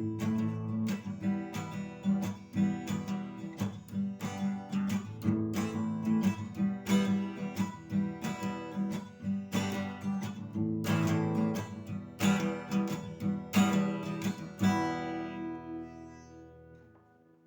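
Acoustic guitar strummed in a steady rhythm, with no singing. About three seconds before the end it stops on a last chord that rings out and dies away.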